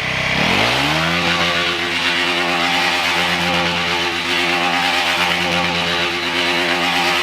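Motorcycle engine revved up within the first second and held at steady high revs for about six seconds, as in a burnout, then dropping off near the end.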